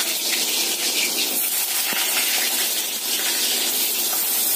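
Whole pointed gourds (potol) frying in oil in a pan: a steady sizzle with a few scattered crackles.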